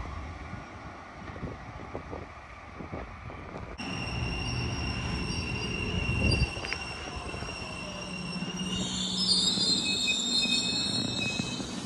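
Sydney Trains double-deck electric train running into the platform, its low rumble peaking as it passes about six seconds in. A high-pitched brake and wheel squeal sets in and swells over the last few seconds as the train slows to a stop.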